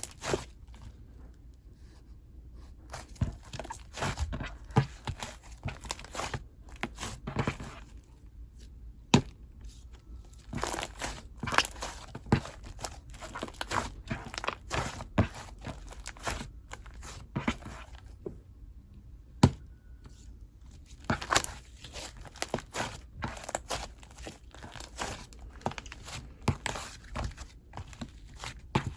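Hands squishing, stretching and pressing a soft, fluffy slime: irregular pops and crackles, sometimes several a second, with brief pauses between handfuls.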